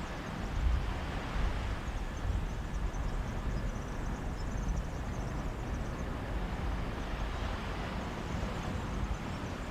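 Steady rush of Mediterranean sea surf and sea breeze, with a low, gusty rumble underneath.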